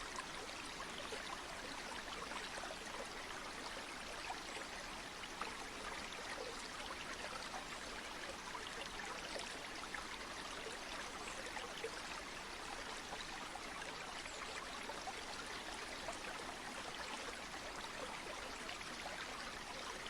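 Flowing river water: a steady, even rush with small splashy flickers running through it.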